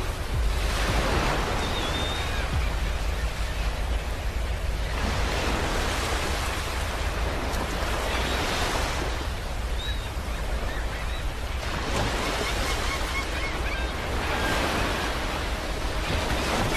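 Ocean waves breaking on a beach, each wash of surf swelling and fading about every three to four seconds over a steady low rumble of the sea.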